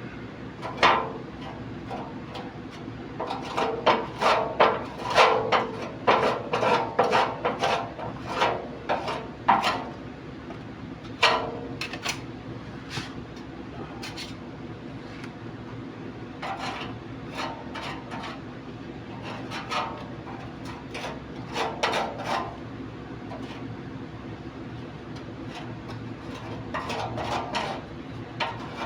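Hand-tool scraping and rubbing in irregular clusters of short strokes, with a few knocks, over a steady low hum.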